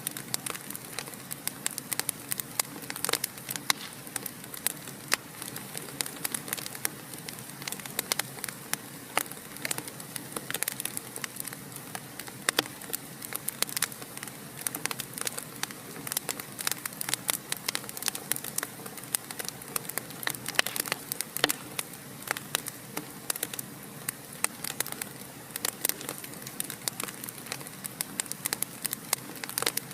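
Wood fire burning in a fireplace, crackling steadily: frequent irregular sharp pops and snaps over a soft continuous hiss.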